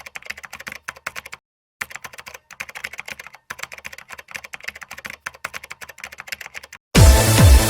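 Rapid computer keyboard typing clicks, with a short pause about a second and a half in. Loud electronic dance music with a steady kick beat cuts in suddenly near the end.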